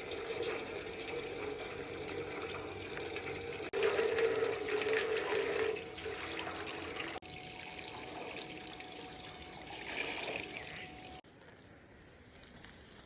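Running water pouring and splashing steadily, in several short stretches that change abruptly; it drops to a much fainter background near the end.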